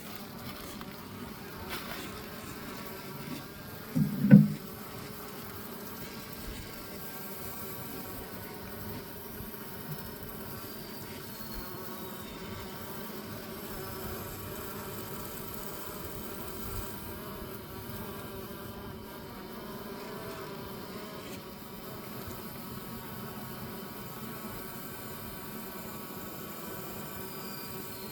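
Honeybees humming steadily on the comb, a dense buzz of many bees. About four seconds in there is one brief, much louder low burst.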